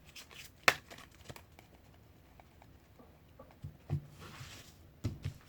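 Tarot cards being shuffled and handled on a table: scattered light clicks with a louder one under a second in, a soft brushing rustle about four seconds in, and a couple of low knocks near the end.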